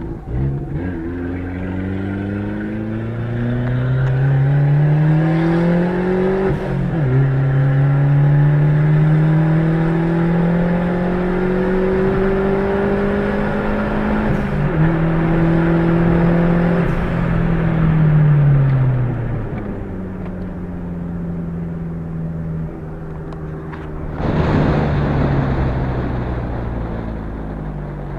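Turbocharged Fiat Palio Fire 1.0 four-cylinder engine heard from inside the car under hard acceleration, its pitch climbing through a gear, dropping at an upshift about seven seconds in, climbing again and shifting once more. Then it winds down as the throttle is lifted and settles to a steady low run. A brief rush of noise comes near the end.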